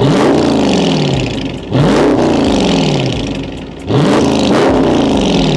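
2022 Dodge Charger Scat Pack's 392 HEMI V8 free-revving three times through a mid-muffler-deleted exhaust. Each rev shoots up sharply and falls back slowly toward idle.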